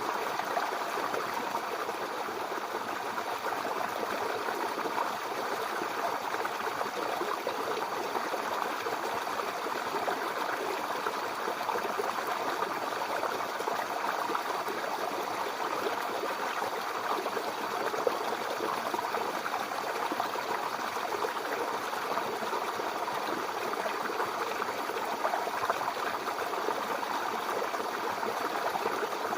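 Mountain river flowing over rocks: a steady rushing and babbling of water.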